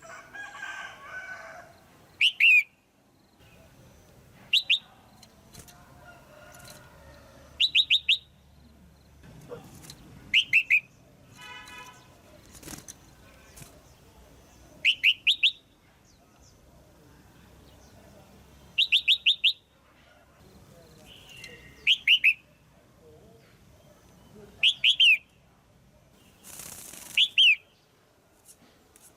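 Female red-whiskered bulbul calling: loud short clusters of two to four quick downward-slurred notes, repeated every two to three seconds.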